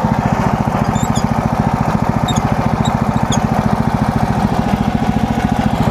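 MechMaxx SM32 bandsaw mill's gasoline engine running steadily with an even, rapid pulse. A few faint, short high chirps come between about one and three and a half seconds in.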